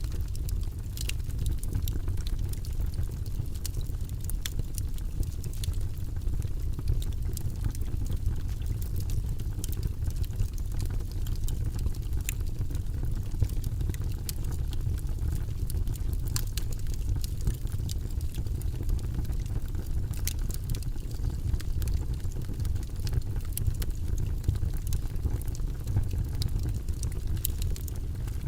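Wood logs burning in a fireplace: a steady low rumble of flames, with frequent sharp crackles and pops at irregular moments.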